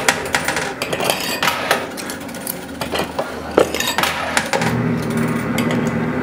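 Quarters clinking and clattering in a coin pusher, with many irregular sharp metallic clicks as coins drop and knock together. A steady hum joins about four and a half seconds in.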